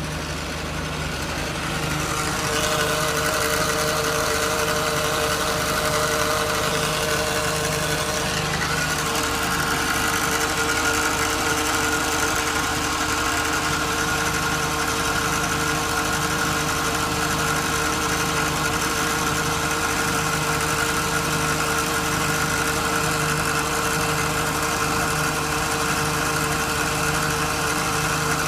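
Hydraulic pump on a WP36 machine running with a steady whine over the hum of the engine that drives it. It grows louder over the first couple of seconds and then holds steady. This is the pump noise the owner is recording.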